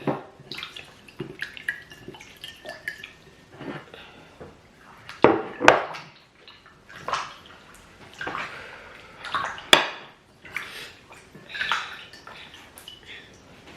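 Hands being washed in water: irregular splashing and dripping, with a few sharp knocks, twice around the middle and once later.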